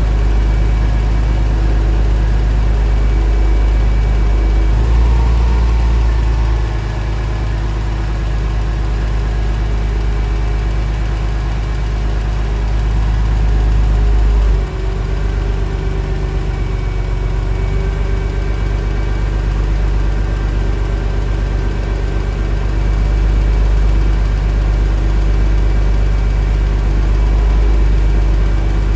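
1999 Porsche 911 Carrera's 3.4-litre flat-six idling steadily after a cold start. It dips slightly in loudness about seven seconds in, and briefly again around fifteen seconds.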